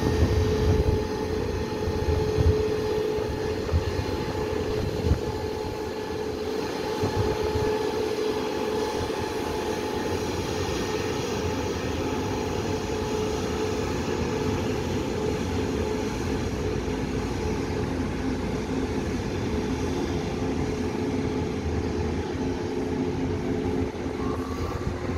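Taiwan Railway push-pull Tze-Chiang express train pulling out of the station: a steady hum and low rumble of the moving train, with a held whine from the electric power car that grows fainter about halfway through as the train draws away.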